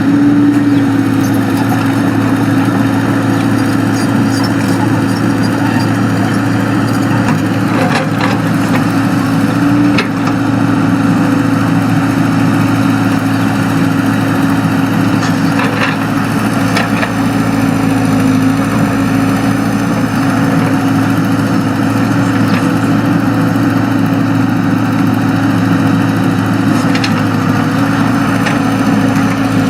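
Excavator's diesel engine running steadily, with a few sharp knocks from the machine at work.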